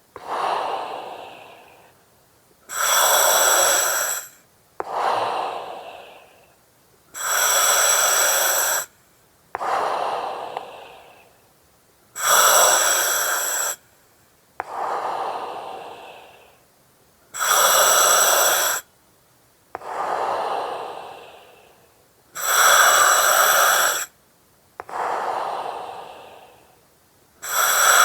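Slow, regular breathing through an oxygen mask, about one breath every five seconds. Each cycle is a loud hiss that starts and stops abruptly, then a softer breath that fades out.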